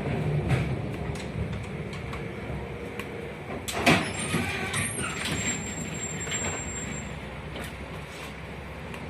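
Running noise of a 71-619KT tram heard from inside the car, slowly dying away as the tram slows. A sharp clank comes about four seconds in, followed by a faint, thin, high squeal.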